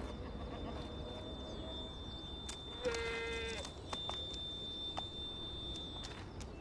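An ibex gives a single short bleat about three seconds in. A few sharp clicks are heard around it.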